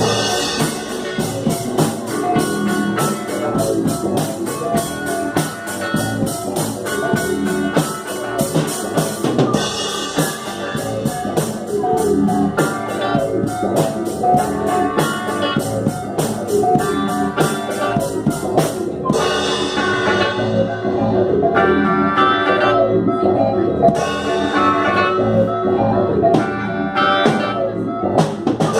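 Instrumental psychedelic rock jam: drum kit and electric guitars playing together, with a fast, dense cymbal pattern that gives way about two-thirds through to sparser accented drum hits under sustained guitar notes.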